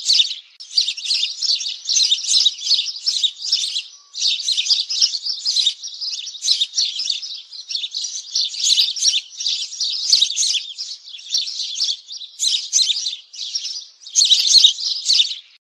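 Small songbirds chirping and twittering rapidly and continuously, in dense bouts separated by brief pauses, then stopping abruptly near the end.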